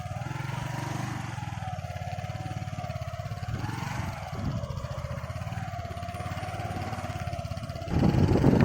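A vehicle's engine running steadily at low speed, with a tone that wavers slowly up and down. Near the end a loud rush of wind noise on the microphone cuts in.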